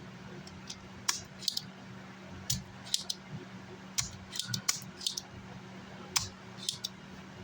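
Scattered sharp metallic clicks and clinks of small hand tools against an amplifier's circuit board while its power-supply MOSFETs are being desoldered, irregular and a few each second, over a steady low hum.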